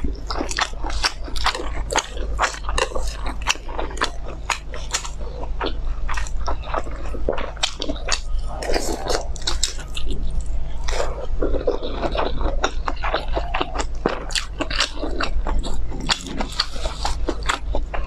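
Close-miked chewing and biting of pan-fried dumplings: rapid wet mouth clicks and smacks, over a steady low hum.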